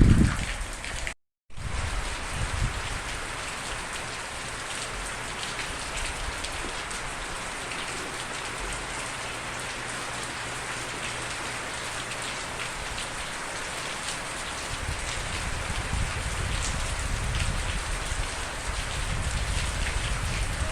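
Steady rain falling, a dense hiss of drops on a surface. A low rumble sits under it at the start, and the sound cuts out completely for a moment about a second in.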